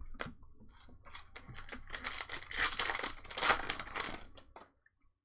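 A trading-card pack wrapper being torn open and crinkled, with the cards clicking against each other as they are handled. The tearing and rustling builds from about a second in and is loudest over the middle seconds, then stops shortly before the end.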